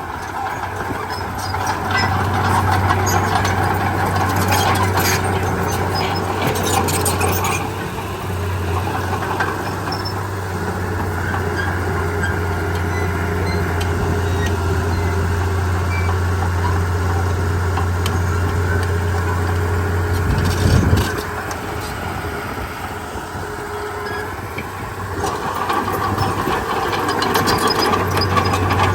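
Komatsu D31P bulldozer's diesel engine running steadily, its level rising and falling with the load. There are bursts of knocks a few seconds in and a single louder knock about two-thirds of the way through.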